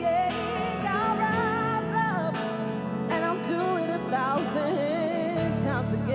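Live soul-pop music: a singer holding and bending wavering notes over sustained instrumental chords, with the bass line changing about five seconds in.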